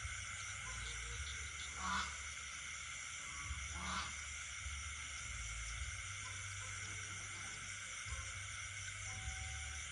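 Night chorus of insects and frogs: a steady high-pitched insect trill, with a frog croaking twice, about two seconds apart, over a low rumble.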